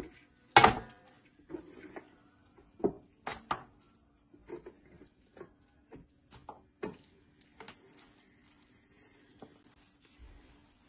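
Irregular knocks and clatter from hands-on cooking preparation, about a dozen sharp hits spaced unevenly, the loudest about half a second in, over a faint steady hum.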